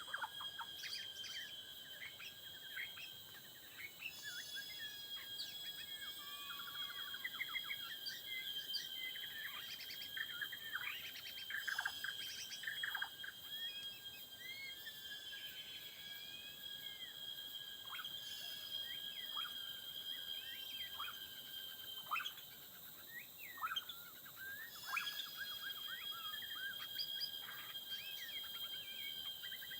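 Songbirds singing: a busy run of short chirps, whistles and sweeping notes, over a steady high-pitched insect drone.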